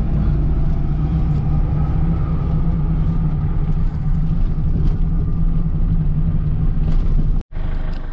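Steady low drone of a car's engine and road noise heard from inside the moving car. It cuts out abruptly for a moment near the end, then picks up again.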